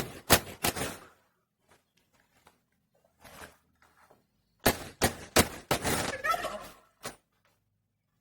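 Quick sharp knocks, about three a second, in two bursts: a short run at the start and a longer run from about halfway through.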